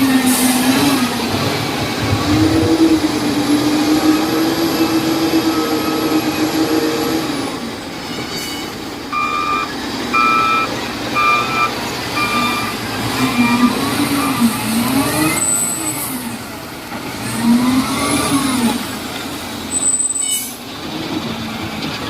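LiuGong 848H wheel loader's diesel engine running and revving up and down as it works. Midway a reversing alarm beeps about once a second, five times, and there are two short bursts of hiss.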